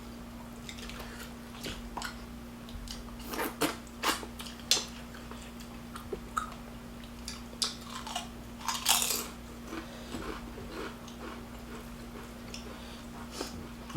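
Close-up eating sounds: chewing and biting into bone-in chicken and rice, with scattered crunches and clicks and a longer wet burst about nine seconds in.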